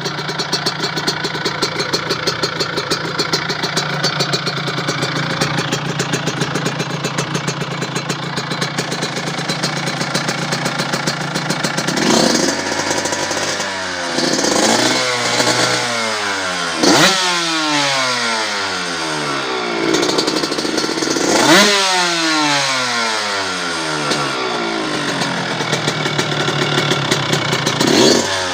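Suzuki RM125's single-cylinder two-stroke engine, fitted with a DEP Pipes exhaust, running steadily at first, then blipped several times in the second half, each rev rising sharply and falling slowly back.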